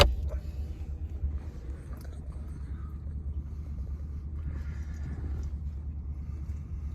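Corvette C8's 6.2-litre V8 idling steadily, a low rumble heard from inside the cabin, with one sharp click right at the start.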